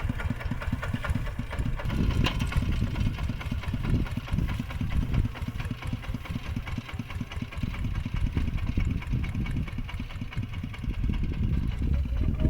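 Mini tractor's engine running steadily, with a rapid, even beat of firing strokes.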